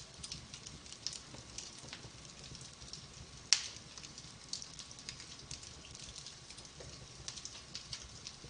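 Wood fire burning in a fireplace, crackling with scattered small pops and one much louder pop about three and a half seconds in.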